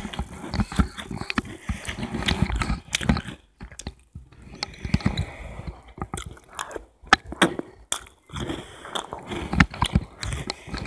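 Close-up chewing and crunching of a mouthful of breakfast cereal, with a metal spoon clinking and scraping in the bowl in sharp irregular clicks.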